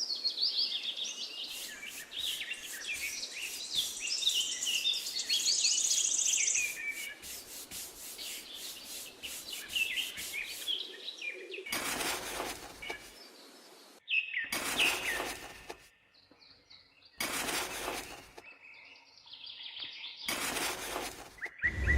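Small birds chirping and calling busily, with scattered clicks. About halfway through, four separate bursts of rushing, rubbing noise take over, each lasting about a second.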